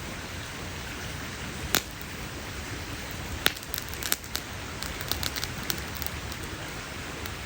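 Wood fire crackling over a steady hiss: a loud pop a couple of seconds in, another sharp pop about halfway, then a run of smaller crackles.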